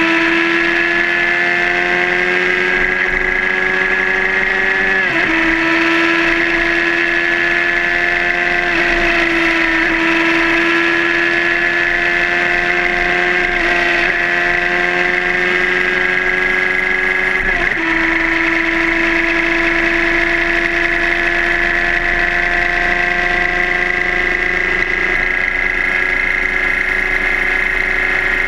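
Suzuki GSR600 inline-four motorcycle engine running under way, its pitch climbing slowly and dipping briefly about four times.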